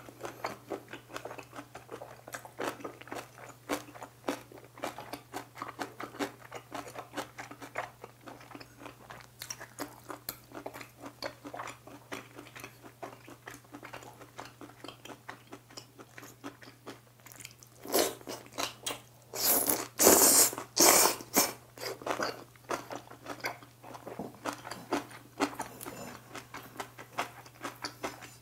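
Close-miked eating sounds: wet chewing and crunching of black-bean noodles, beef and kimchi, as a run of irregular small clicks. A louder burst of crisp crunching bites comes about two-thirds of the way through. A faint steady hum sits underneath.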